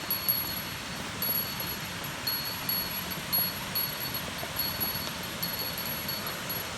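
Steady rush of a waterfall on a mountain stream. A high bell-like ringing tone comes and goes over it.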